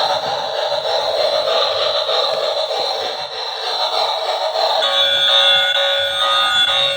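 Tinny electronic music from a battery toy train's small built-in speaker. About five seconds in it changes to a few steady, siren-like tones.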